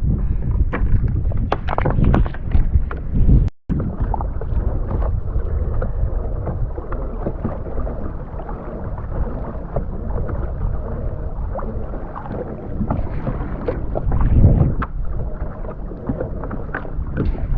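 Wind buffeting the microphone over water sloshing around a kayak, with scattered small knocks and splashes. The sound drops out for an instant about three and a half seconds in, and there is a louder gust or wash near the end.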